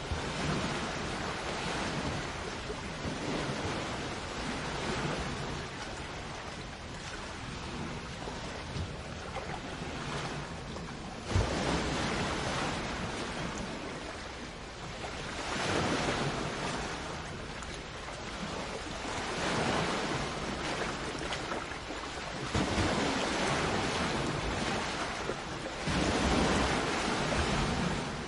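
Sea waves breaking and washing up a shore, the surf swelling and easing every few seconds, with one sudden crash about a third of the way in.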